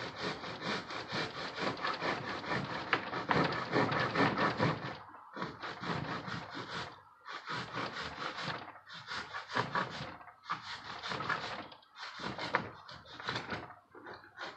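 Hand sawing through the metal can of a spin-on oil filter: rapid scratchy strokes for the first few seconds, then separate strokes about one a second.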